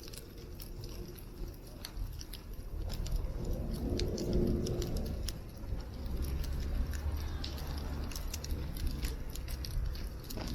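Wood fire crackling in a campfire pit: scattered sharp pops and snaps over a low rumble that swells twice.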